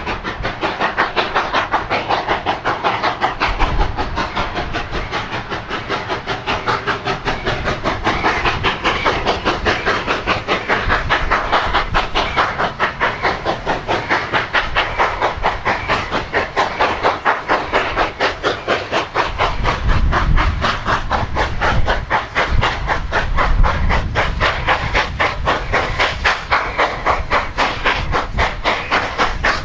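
Narrow-gauge steam locomotive working, its exhaust chuffing in a steady rapid rhythm over hissing steam. A deeper rumble swells about twenty seconds in.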